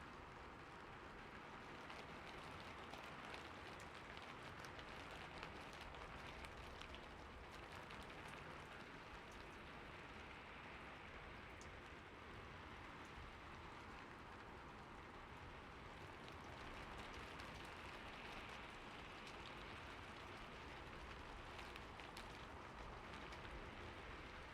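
Steady, soft rainfall, with fine drops pattering on a surface.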